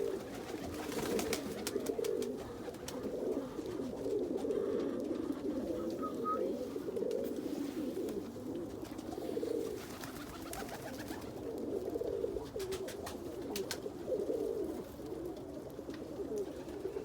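Several domestic pigeons cooing at once, low overlapping coos without a break, with a few faint sharp clicks scattered through.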